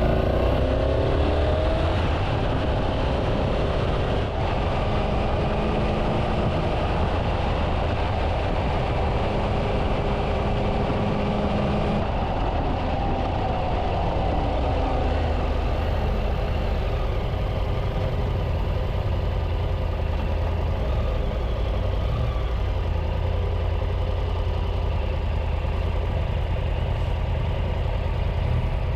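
Triumph Tiger 800 three-cylinder motorcycle engine running while riding, over a steady deep rumble. The engine note glides up and down several times in the first half, then holds steadier.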